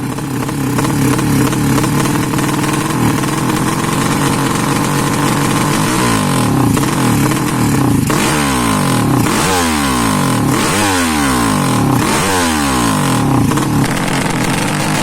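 Bored-up 200cc Yamaha Jupiter single-cylinder four-stroke motorcycle engine running while it is being tuned. It holds steady revs at first, then from about six seconds in the throttle is blipped repeatedly, the revs rising and falling several times.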